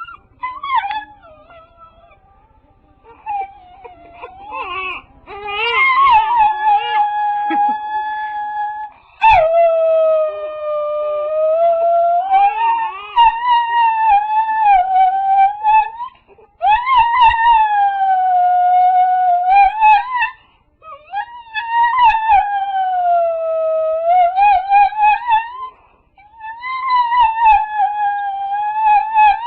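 A dog howling: a few short wavering whimpers, then a run of about five long drawn-out howls, each several seconds, wavering up and down in pitch with short breaks between them.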